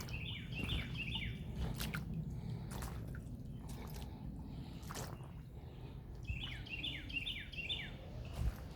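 A songbird singing a short phrase of about five quick, downward-sweeping notes, twice, a few seconds apart, over a low steady background hiss with a few scattered clicks.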